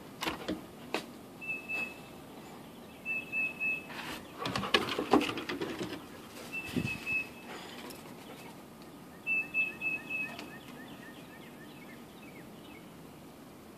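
Songbirds singing in the background: a high, steady note repeated every few seconds, with a short trill about two-thirds of the way in. Over the first half come irregular knocks and rustles, loudest around the middle.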